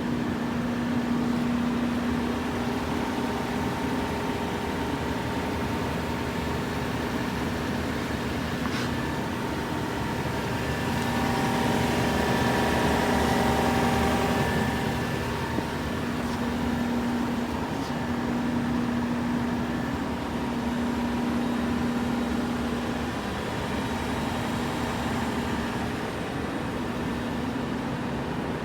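Steady mechanical hum with a low droning tone, swelling for a few seconds around the middle.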